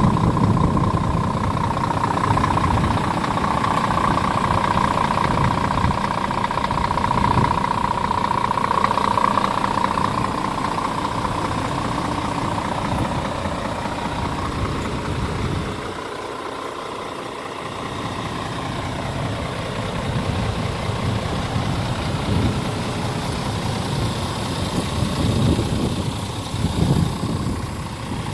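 Scania R410 tractor unit's 13-litre inline-six diesel idling steadily, with a steady high whine over it for about the first ten seconds. The sound drops quieter for a couple of seconds past the middle.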